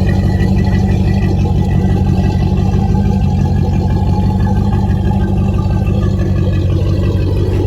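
Heyday WT-1 engine running steadily with an even low hum.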